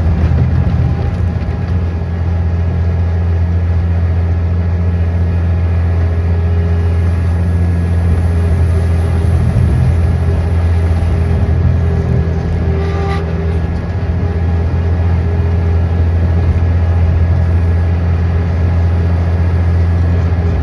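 A large engine running steadily at constant speed, with a short sharp click about two-thirds of the way through.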